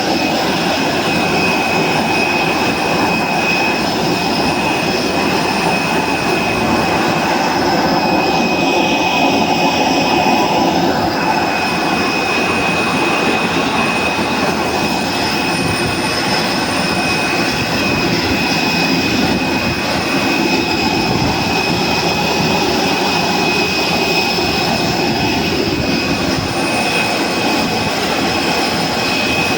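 Jet aircraft engine running steadily: a continuous loud rush with a constant high-pitched whine on top.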